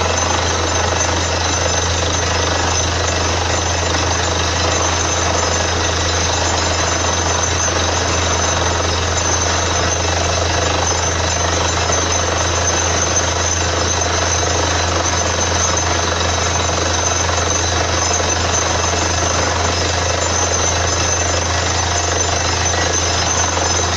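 Borewell drilling rig drilling steadily: a loud, unbroken machine noise with a steady low hum underneath.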